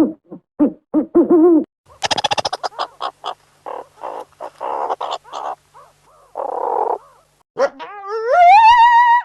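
A run of animal calls: short pitched hoot-like calls, then a quick burst of clicks, rough noisy bursts, and finally one long call that rises in pitch and holds.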